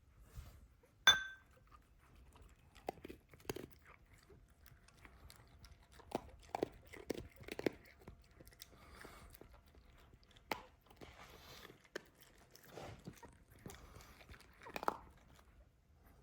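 A dog chewing and crunching food in short, irregular bites. About a second in there is a single sharp clink that rings briefly.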